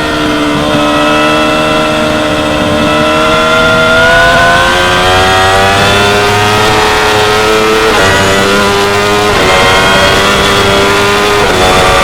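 2016 Yamaha R6's 599 cc inline-four sport-bike engine at high revs on track. Its note drops as it slows at first, then climbs steadily under acceleration, with three quick breaks in the second half as it shifts gears.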